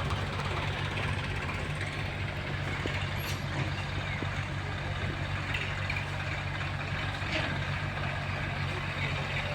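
Heavy diesel engine running steadily at low speed, with a few faint short sounds over it.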